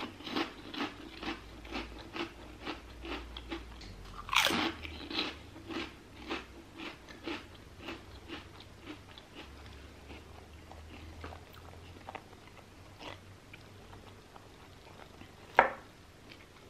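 Close-miked crunching and chewing of a crisp puffed crab cracker: a run of crunches, dense at first and then thinning and softening, with a louder crunch about four seconds in. A short sharp sound comes near the end.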